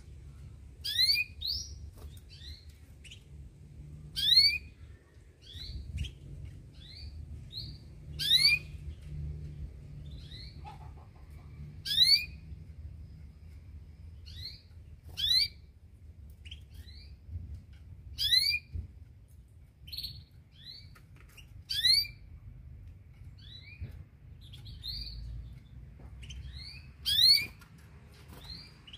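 Domestic canary chirping: a loud rising note followed by a few short chirps, the phrase repeated about every three to four seconds, over a low steady background rumble.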